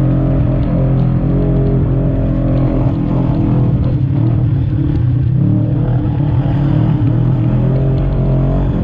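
Side-by-side UTV engine running hard while driving through desert sand, its pitch falling and rising with the throttle as it goes.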